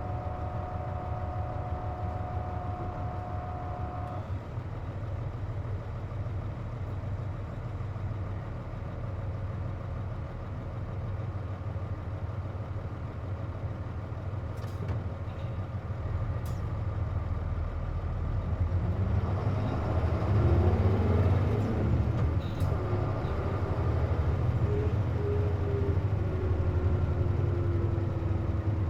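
Cabin noise of an Isuzu KC-JP250NTN diesel city bus under way with its air conditioning running, which gives this bus an abnormal noise: a steady low engine drone with a whining tone over it. The tone stops about four seconds in. About two-thirds of the way through, the engine pitch rises and falls and the noise gets louder, then a whine slowly drops in pitch near the end.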